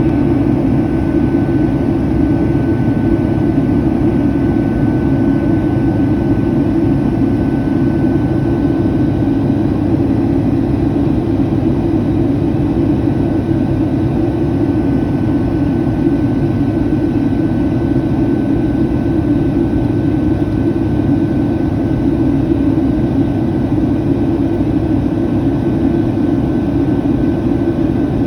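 Steady cabin noise of a Boeing 757 jet airliner: an even roar of engines and airflow, with a faint steady high whine over it.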